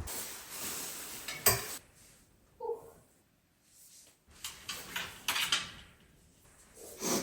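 Indoor handling noises: rustling with a sharp click about a second and a half in, a short clink-like pitched blip, then more rustling and small knocks.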